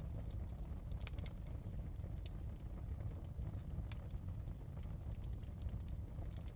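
Wood fire crackling: irregular sharp pops and snaps, the clearest a second in, a little after two seconds and about four seconds in, over a steady low rumble.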